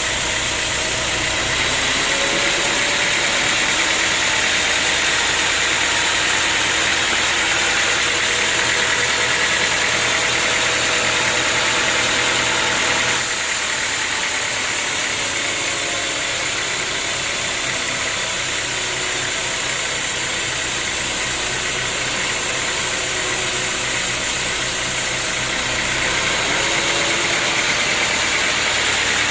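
Sawmill machinery running steadily, a loud even mechanical noise with faint humming tones. The sound shifts abruptly about a second in, again about halfway through, and once more near the end.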